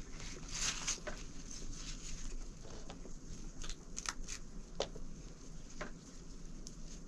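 Rain pattering, with irregular sharp drips and taps over a steady hiss.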